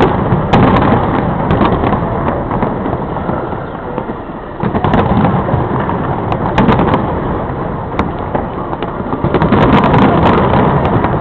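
Aerial fireworks shells bursting in a steady barrage: deep rolling booms with sharp cracks and crackles mixed in. They ease off briefly about four seconds in, pick up suddenly again, and grow louder near the end.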